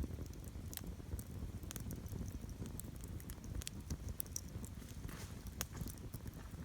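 Wood campfire crackling: irregular small sharp pops and snaps over a low, steady rumble.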